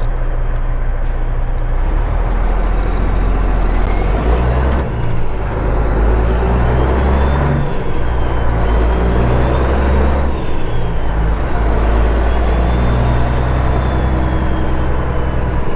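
Straight-piped Caterpillar 3406E inline-six diesel in a Kenworth W900, fitted with a PDI turbo, manifold and tune, running under way on the road. The loud, low engine note dips and changes pitch a few times, around five, seven and a half and ten seconds in.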